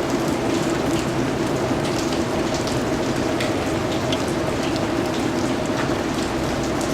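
Steady rain falling, with individual drops ticking on a surface throughout, over a faint steady low hum.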